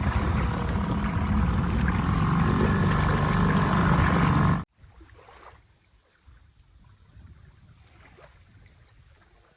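A boat motor running steadily with a low drone and a higher whine, stopping abruptly about halfway through. Faint water lapping and splashing follows.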